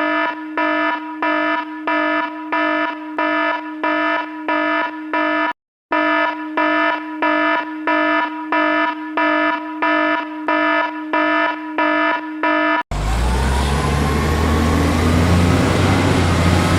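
An electronic beeping alarm, pulsing about twice a second over a steady tone, with a brief break about five and a half seconds in. Near the end it gives way abruptly to a loud vehicle-engine-like rumble with a rising whine.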